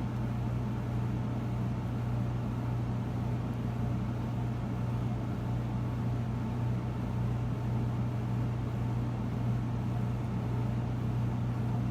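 A steady low hum with a faint even hiss that does not change.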